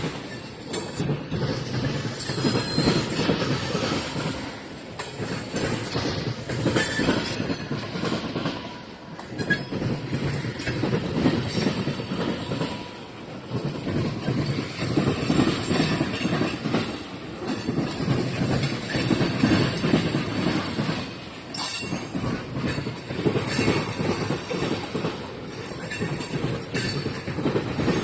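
Freight train of tank cars rolling past close by: a steady rumble of steel wheels on the rails, with repeated sharp wheel clicks over the joints.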